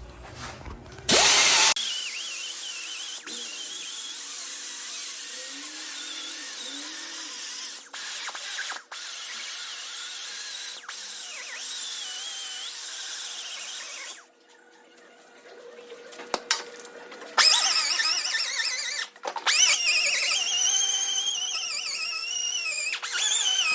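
Power tool whining as it cuts and trims steel header tubing, its pitch wavering under load. It stops for about three seconds midway, then starts again.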